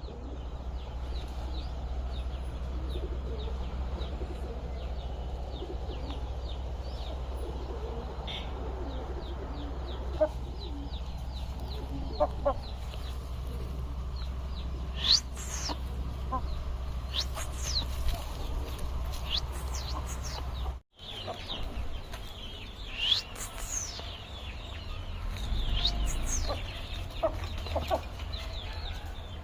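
Aseel chickens clucking now and then, with many small birds chirping in short, high, falling calls. A steady low rumble runs under it and drops out briefly about two-thirds of the way through.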